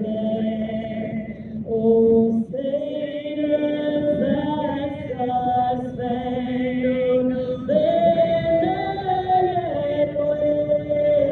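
A choir singing slow, sustained chords, with several voices holding long notes and moving together to new chords every few seconds.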